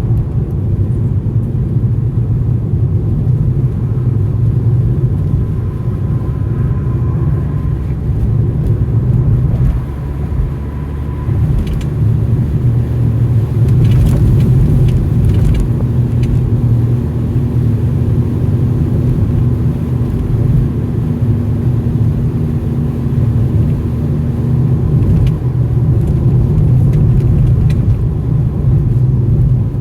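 Car driving at steady speed: a continuous low rumble of road and engine noise, with a few faint clicks near the middle.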